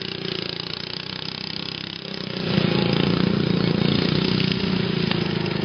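Racing lawn mower engine running, getting clearly louder a little over two seconds in and then holding steady.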